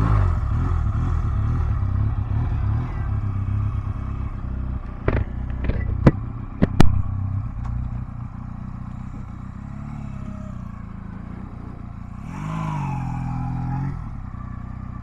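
Honda Rebel 250's single-cylinder engine running at idle, loudest in the first seconds and settling lower. A few sharp clicks come around five to seven seconds in, and there is a brief rev near the end.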